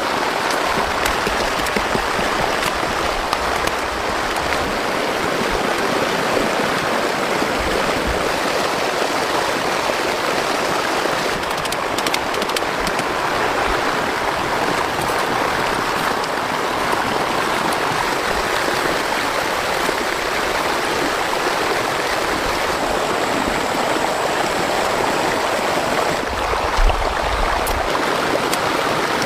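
Fast-flowing flood water rushing steadily, a continuous loud wash of running rainwater.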